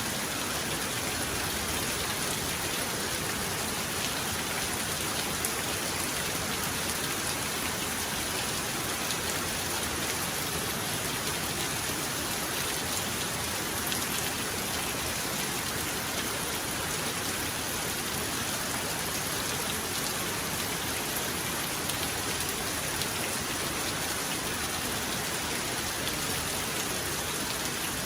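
Steady heavy rainfall: an even, unbroken hiss of rain on surfaces with no thunder.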